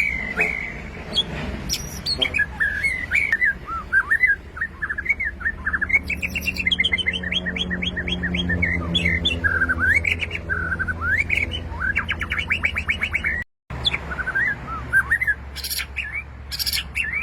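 White-rumped shama (murai batu) singing: a long, varied run of loud whistled phrases mixed with rapid trilled rattles, broken by a brief cut about two-thirds of the way through.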